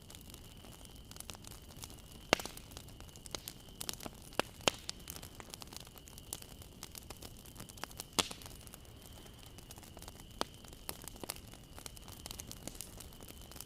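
Bonfire crackling: irregular sharp pops and snaps over a soft hiss, with a few louder pops about two, four and a half and eight seconds in. A thin steady high whine runs underneath.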